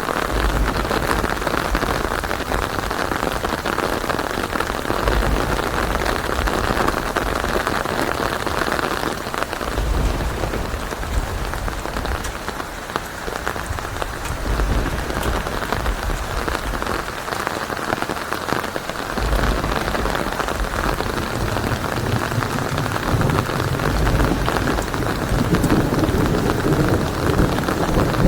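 Steady heavy rain during a thunderstorm, with low rumbles of thunder coming and going several times, the strongest near the end.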